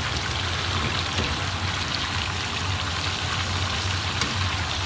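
Chicken and masala sizzling steadily in a stainless steel pan, with a steady low hum underneath.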